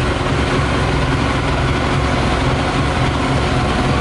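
Yamaha YZF600R's inline-four engine idling steadily while running on 40% whisky instead of petrol, with the radiator cooling fan running.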